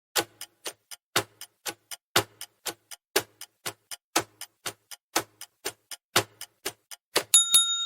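Countdown timer sound effect: a clock ticking about four times a second, with a louder tick each second, for about seven seconds. Near the end a bell ding rings out to signal that time is up.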